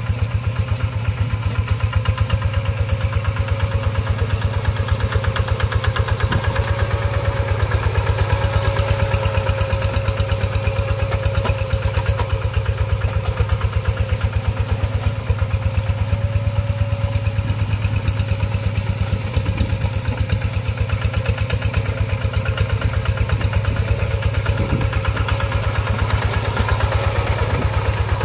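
Hand tractor's single-cylinder diesel engine running steadily with an even, rapid firing beat and a steady whine above it.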